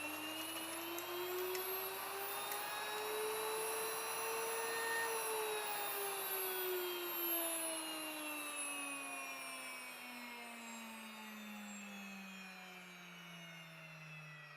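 WonderMill electric grain mill running while it grinds wheat into flour: a loud motor whine that rises in pitch over the first five seconds or so, then falls steadily and grows quieter.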